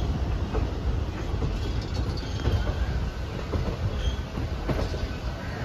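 A train running on the rails: a steady rumble of wheels on track with irregular clatter.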